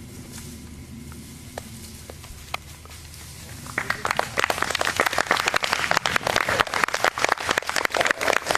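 An audience applauding, breaking out suddenly about four seconds in after a couple of single claps.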